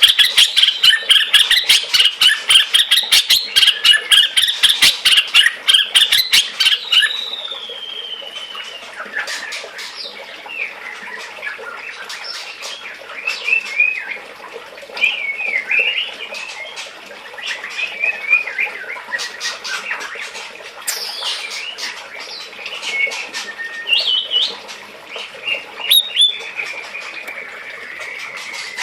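White-rumped shama calling: a fast, harsh run of repeated chattering notes for about the first seven seconds, then short, varied whistled notes and phrases.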